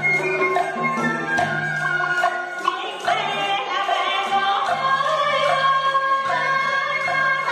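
Traditional Vietnamese folk music of the kind played for water puppet theatre: regular percussion strokes, joined about three seconds in by several singing voices holding drawn-out notes.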